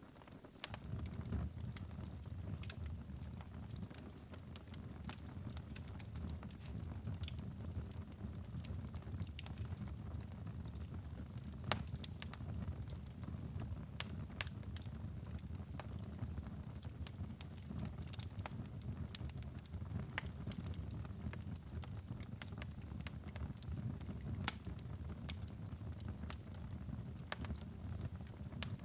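Wood fire burning in a fireplace: steady low rumble of the flames with frequent, irregular sharp crackles and pops.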